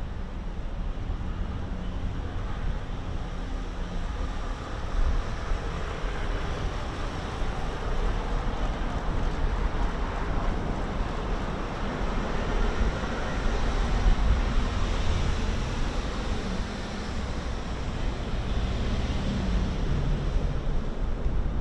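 Steady outdoor city ambience: a continuous low rumble of distant traffic, with wind buffeting the microphone.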